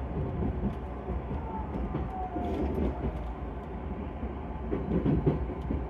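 Interior running noise of a 383-series limited express electric train: a steady low rumble of wheels on rail inside the passenger car, with faint scattered clicks.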